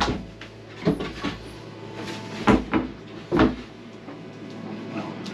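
Wooden cabin floorboards being laid back into place: a series of knocks and thumps of board against board and frame, about six in the first three and a half seconds, then quieter handling.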